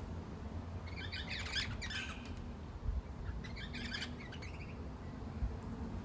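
Wild birds chirping in two short bursts of rapid, high notes, about a second in and again about three and a half seconds in, over a steady low rumble.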